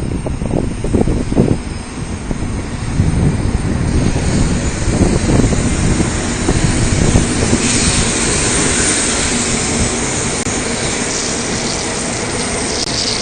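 Sakura Shinkansen train pulling out of the station, its rumble growing as it gathers speed and turning into a steady rushing hiss.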